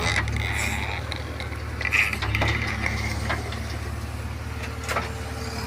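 JCB 3DX backhoe loader's diesel engine running steadily, with scattered metallic clanks and knocks as it works at loading.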